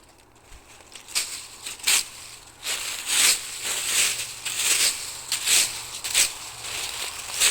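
Footsteps crunching on the forest floor at a walking pace, about one and a half steps a second, starting about a second in.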